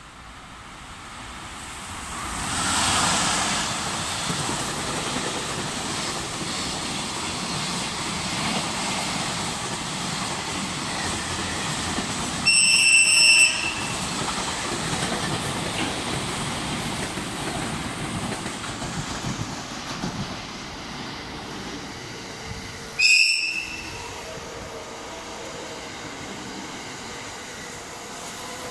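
EF64 electric locomotive and its container wagons rumbling past on the rails, with noise swelling as the locomotive goes by a few seconds in. A 681-series limited-express train sounds its horn twice as it approaches and passes: a high steady blast about a second long roughly twelve seconds in, and a shorter one about ten seconds later.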